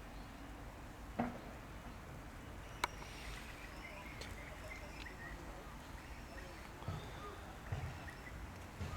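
Faint outdoor background with a few short, high chirps around the middle, a sharp click and several soft low thuds near the end.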